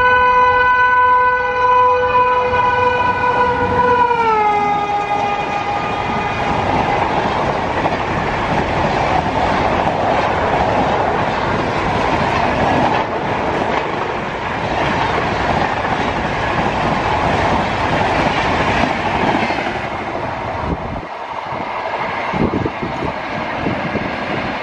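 Express passenger train passing at full speed, hauled by an Indian Railways electric locomotive. The locomotive's horn is held for the first few seconds and drops sharply in pitch about four seconds in as the locomotive goes by. The coaches then pass with a continuous rushing rumble and wheel clatter, which thins out near the end as the last coach goes by.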